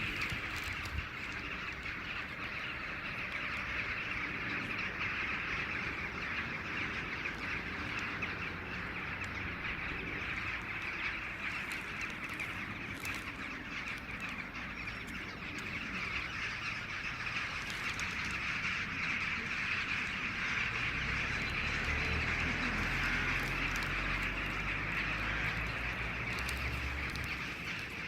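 A large flock of birds calling all at once, a dense, unbroken chatter. A low rumble joins it for a few seconds near the end.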